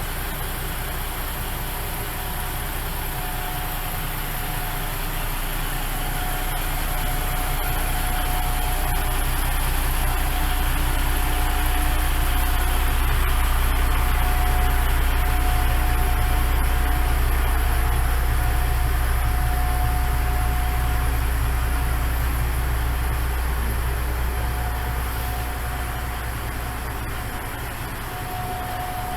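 Diesel railcar's engine running with a deep steady drone, swelling louder over several seconds and easing off again near the end, with a thin steady whine coming and going.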